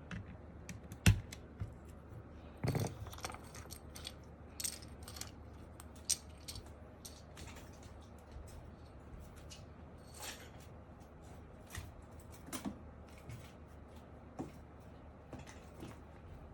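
Small hard plastic keyboard parts being handled: irregular light clicks and clatter, with one sharp knock about a second in and a short rattle at about three seconds.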